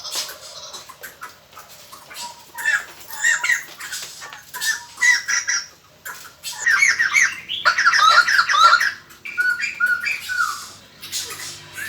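White-crested laughingthrushes calling in a chattering burst of quick, squawking notes. The calls are loudest about midway through. This is a lure call recording used to attract wild laughingthrushes.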